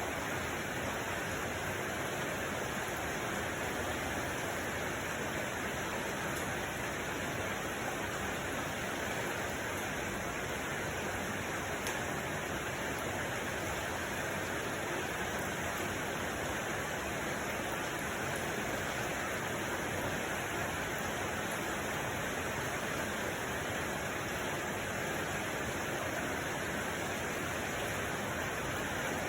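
Steady, unchanging rushing noise spread evenly from low to high pitch, with no separate events.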